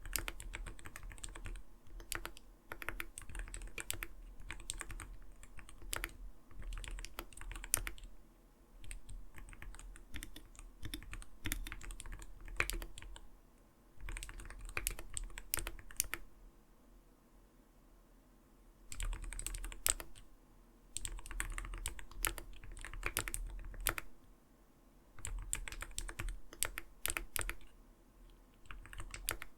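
Typing on an Arbiter Studio Polar 65 mechanical keyboard with clear keycaps: runs of quick keystrokes with a soft, not-too-light clack, broken by short pauses, the longest of about two seconds a little past the middle.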